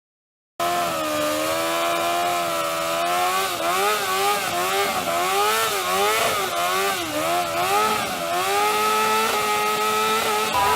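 Motorcycle engine being revved up and down over and over, its pitch rising and falling about once a second. It cuts in about half a second in.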